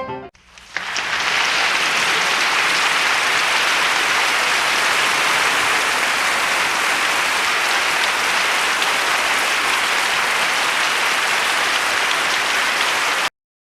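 Applause from a crowd clapping, steady throughout, cutting off abruptly near the end.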